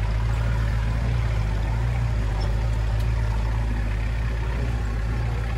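Land Rover 4x4's engine running with a steady low drone.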